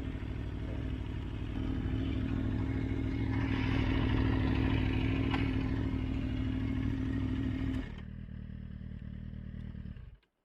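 Motorcycle engine running steadily, dropping in level about eight seconds in and cutting off just before the end as it is switched off.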